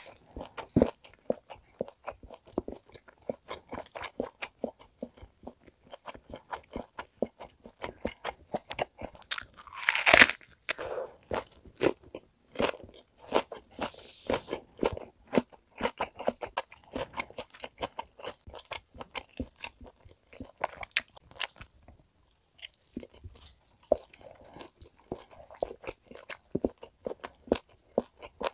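Close-miked chewing of steak and onion: a steady run of small wet mouth clicks and smacks. One louder crunch comes about ten seconds in, and there is a short pause a little past two-thirds of the way through.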